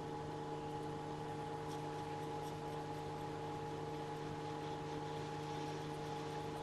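Steady electrical hum from repair-bench equipment, with several steady tones under a faint even hiss and a few faint ticks.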